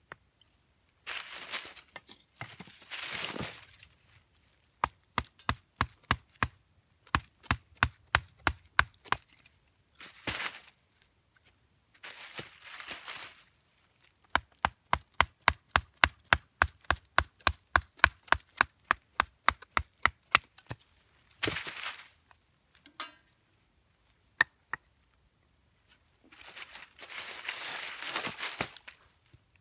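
Small wood being chopped into kindling: runs of sharp wooden knocks, about four a second in the longest run, between bursts of rustling.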